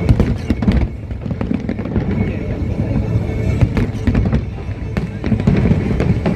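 Fireworks exploding in rapid succession, sharp bangs over a continuous low rumble, with music playing underneath.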